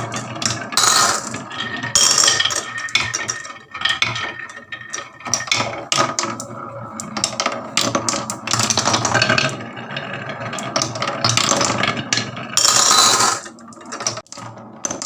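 Marbles rolling and clattering down a HABA wooden marble-run track: a busy run of clicks, knocks and rattles, with louder clatters about one, two and thirteen seconds in.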